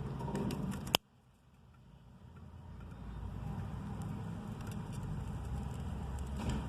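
Steady low rumbling noise with a few faint ticks. A sharp click about a second in cuts it almost to silence, and then the rumble slowly swells back.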